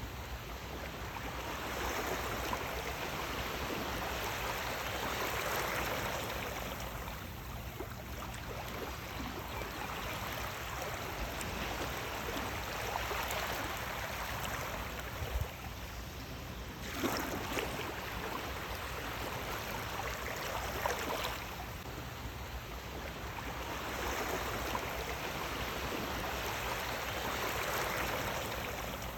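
Sea waves washing in and drawing back, a continuous rushing of water that swells and eases every several seconds, with one sharper surge about two-thirds of the way through.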